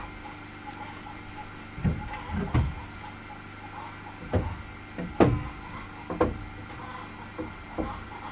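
Wooden knocks and thuds at irregular intervals, about six in all, the loudest a little past the middle, over a steady faint hum.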